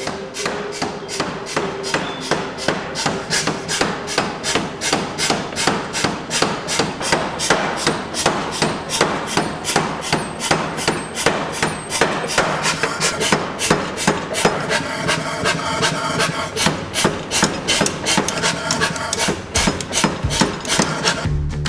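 Power hammer blows on hot steel in a fast, even rhythm of about four strikes a second, the billet being forged and drawn out.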